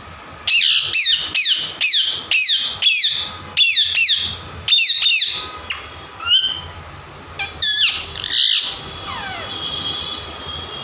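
Parrot screeching: a rapid run of about ten harsh calls, each falling in pitch, roughly two a second, then a few scattered shorter calls.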